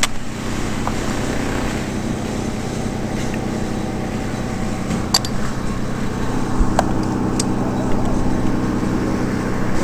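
Two-stroke chainsaw idling steadily between cuts, with a few light clicks and knocks.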